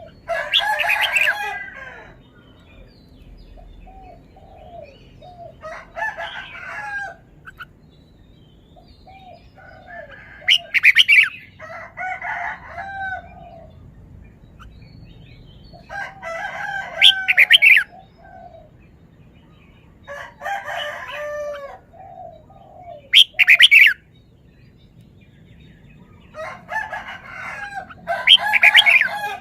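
Red-whiskered bulbul singing: short warbled song phrases repeated every four to five seconds, with soft, low single notes between them.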